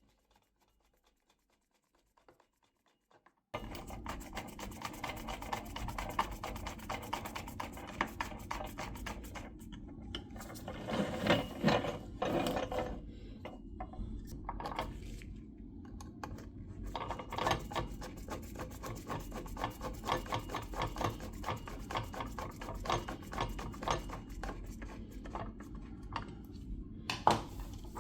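Continuous rubbing and scraping dense with small clicks, starting suddenly about three and a half seconds in, with a louder stretch near the middle.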